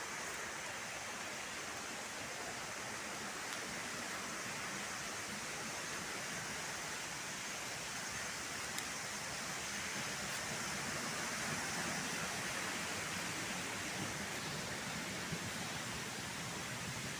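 Steady rushing of a waterfall, an even hiss of falling water that swells slightly about two-thirds of the way through.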